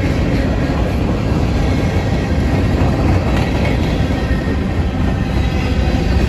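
Freight train's covered hopper cars rolling past, a steady rumble of steel wheels on the rails.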